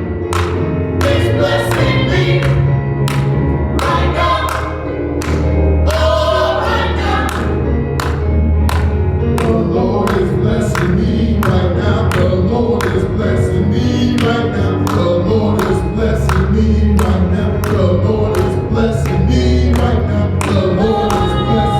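Gospel choir singing with a band: a steady drum beat about twice a second over held bass notes.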